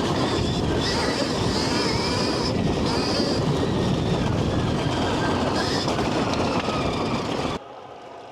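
Stark Varg electric dirt bike being ridden over a wet, rough trail. The electric motor's whine wavers up and down in pitch over a dense rumble of tyres and terrain, and everything cuts off abruptly near the end.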